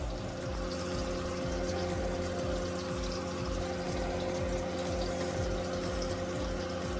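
Breaded chicken tenders sizzling steadily in shallow frying oil, with soft background music holding a long note over a low pulse.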